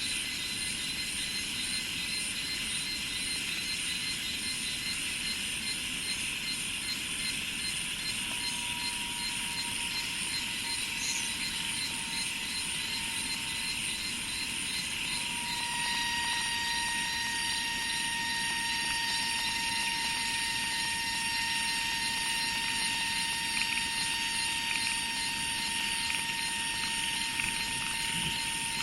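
Dense chorus of insects, a continuous buzzing hiss with fast pulsing trills. About halfway in, a steady thin whine joins and grows louder.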